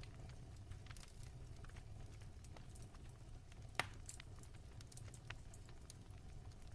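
Wood fire crackling softly in a fireplace: scattered small pops, with one sharper pop a little past halfway, over a low steady rumble.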